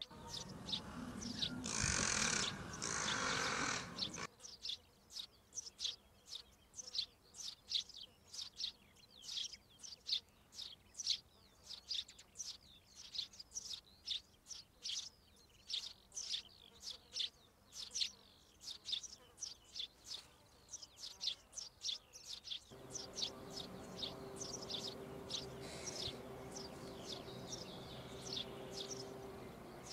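A small bird chirping over and over in short, high, thin notes, two or three a second, after a loud rush of noise in the first few seconds. A steady low hum comes in for the last several seconds.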